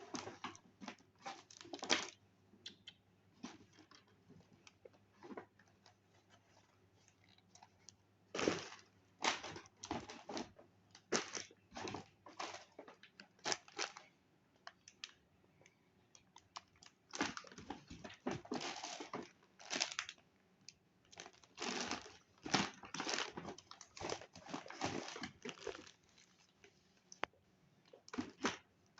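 Crunchy snack being chewed: irregular clusters of sharp crunches, with quieter pauses between bouts.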